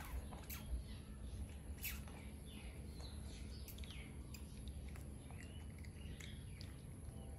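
Faint bird chirps in the background, a few short rising-and-falling calls, over a low steady hum, with a few soft clicks.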